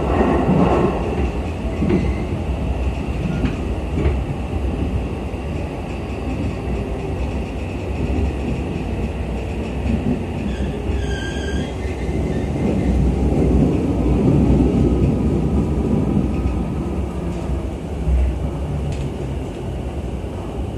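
Interior running noise of a JR East E233-5000 series electric train: a steady rumble of wheels on rail. A brief high-pitched squeal comes about eleven seconds in.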